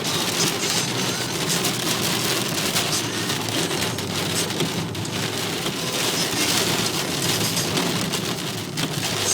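Steady rain falling, a dense hiss of many individual drops striking a surface.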